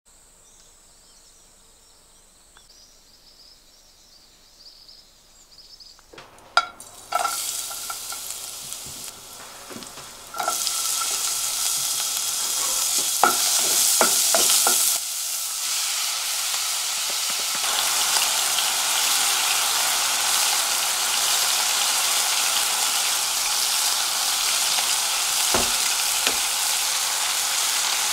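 Food sizzling and frying in a hot pan, with clicks and knocks of a cooking utensil. It opens quietly; the sizzle comes in suddenly and loud about ten seconds in and carries on steadily.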